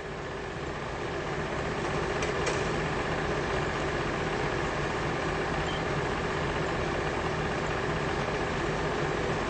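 Steady hum of an idling engine, swelling slightly over the first couple of seconds and then holding even, with two faint clicks about two seconds in.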